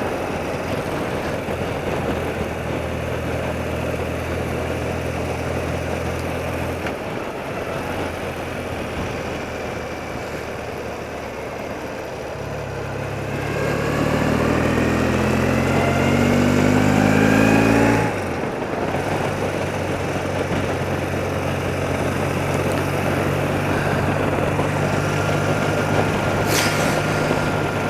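Thirty-year-old BMW motorcycle engine running on the road, with wind rush. About halfway through it pulls harder and its pitch rises for several seconds, then drops sharply at a gear change and settles back to a steady run.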